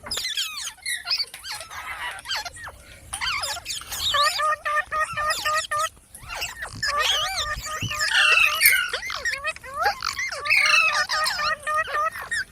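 Pet parrot chirping and squawking in quick, pitch-gliding calls, with a fast run of evenly repeated notes partway through.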